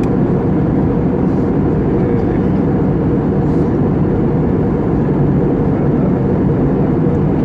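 Steady low rumble of engine and airflow noise inside the cabin of an Airbus A320-family jet airliner in flight.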